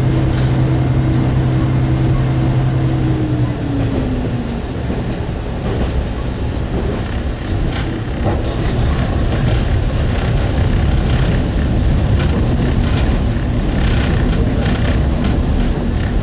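Cabin noise of a single-car diesel railcar under way: the engine's steady drone drops in pitch about four seconds in, leaving the low rumble of the running gear with scattered clicks and knocks from the wheels on the rails.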